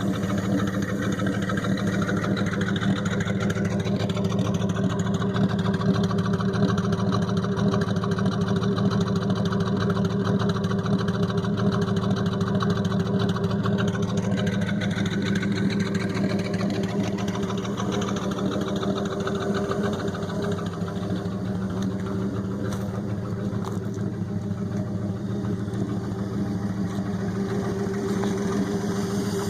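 1968 Ford 300 cubic-inch straight-six idling steadily through a straight-pipe exhaust, warming up after a cold start, with its valve cover off.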